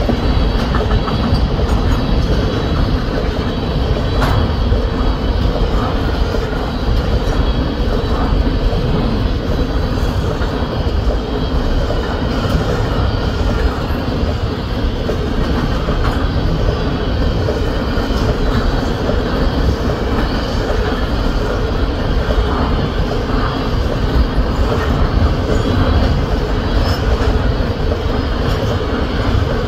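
A long freight train of three-bay covered hopper cars rolling steadily past close by: a loud, continuous rumble of steel wheels on the rails.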